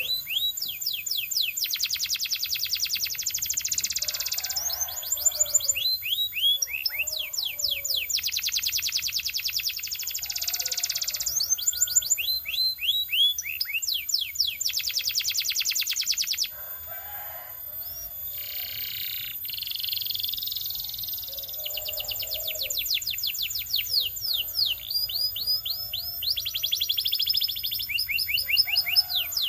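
Belgian canary singing a continuous song of fast trills: runs of rapid downward-sweeping whistled notes alternating with dense rolling trills, the pattern changing every second or two. The song drops to a softer passage a little past the middle, then picks up again.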